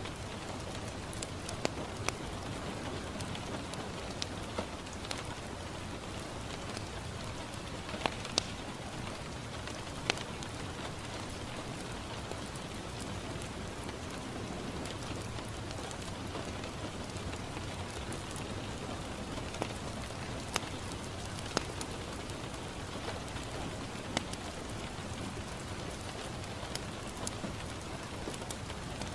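Steady rain falling on a window, with occasional sharp crackles and pops from a wood fire in a fireplace.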